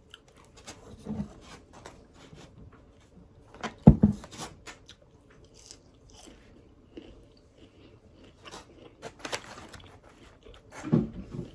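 Chewing and biting into crispy fried food close to the microphone: scattered crunches, with a louder crunch about four seconds in.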